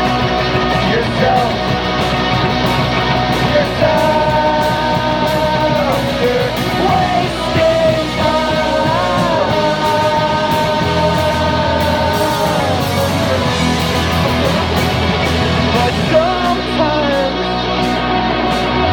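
Live rock band playing loudly: electric guitars, bass and drums with a singing voice holding long notes that bend in pitch. The low end thins out about sixteen seconds in.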